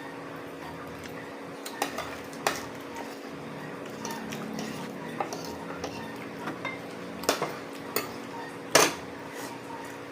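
Cutlery clinking and scraping against plates and bowls while eating, a handful of separate sharp clinks with the loudest near the end, over a steady background hum.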